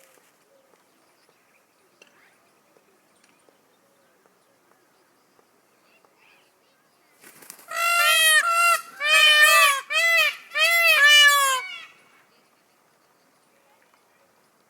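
Peacock calling: a loud run of quick, arching, repeated notes in a few close bursts, starting about halfway in and lasting some four seconds.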